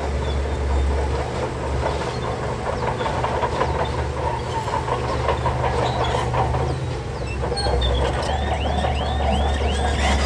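Shantui DH17C3 bulldozer's diesel engine running under load, its steel tracks clanking over crunching stone. About eight seconds in, a rapid series of short falling squeals starts, repeating about three times a second, like track rollers squeaking as the machine moves.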